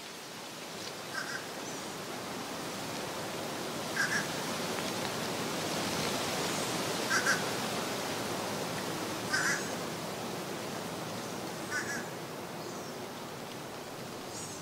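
Steady, even rushing noise that fades in at the start, with a short two-note bird call standing out above it five times, every two to three seconds.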